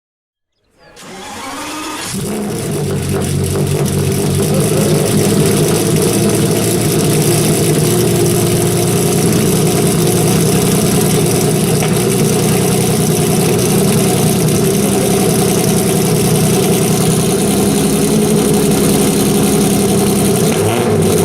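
Ferrari F50's 4.7-litre naturally aspirated V12 starting up just under a second in, the sound climbing over about a second, then idling steadily.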